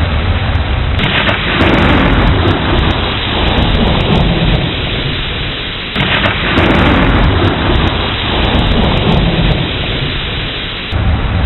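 Thunderstorm: steady heavy rain with rumbling thunder, which swells suddenly about one second in and again about six seconds in, each rumble dying away over a few seconds.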